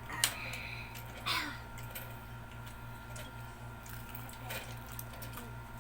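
Tableware and eating sounds during a meal: a sharp clink just after the start, a short vocal sound about a second in, then faint scattered clicks and smacks of eating over a steady low hum.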